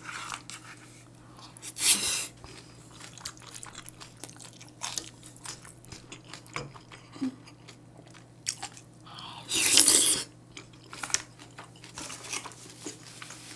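Close-up chewing of a mouthful of vegetable bibimbap, with soft crunching and many small wet clicks. Two brief, louder noisy sounds come about two seconds in and again around ten seconds in.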